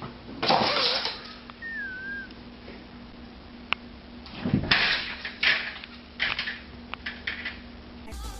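Startled cat scrambling: several sudden bursts of scuffling and clattering, with one short high squeak about two seconds in.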